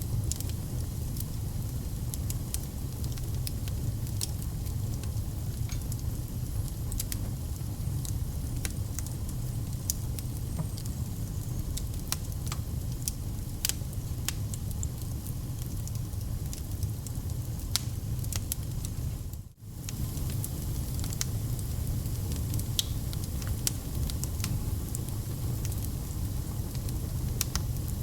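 Wood fire burning in a fireplace: a steady low rumble of flames with many sharp crackles and pops. The sound cuts out very briefly about two-thirds of the way through.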